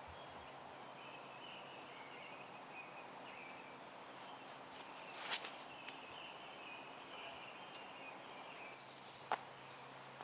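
Quiet outdoor ambience with faint bird chirping, broken by two short sharp clicks about five and nine seconds in.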